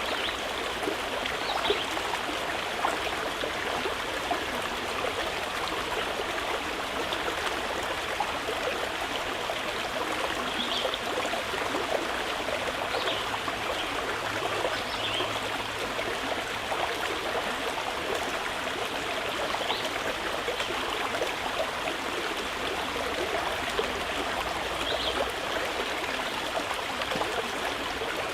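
Mountain river running steadily, an even rushing of water, with a few short, high bird chirps scattered over it.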